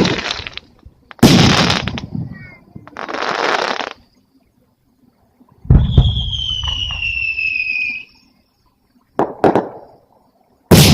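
Aerial fireworks bursting in separate bangs: one loud burst about a second in, a second burst near the middle with a whistle falling in pitch over it for about two seconds, and two short sharp cracks near the end.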